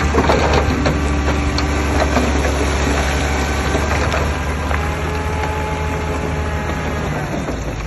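Heavy diesel earthmoving machine running steadily with a deep rumble, with scattered knocks and clicks of soil and rock. The engine sound eases off slightly near the end.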